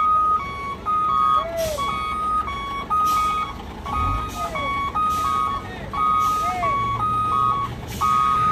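Truck reversing alarm sounding continuously: an electronic beep alternating between two close pitches several times a second, over the low rumble of a truck engine. Short hissing puffs and a swooping rising-and-falling tone recur about every second or so.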